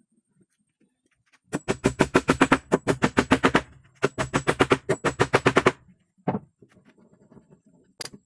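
Two quick runs of sharp knocks, about eight a second, each lasting about two seconds, followed by a few single knocks near the end.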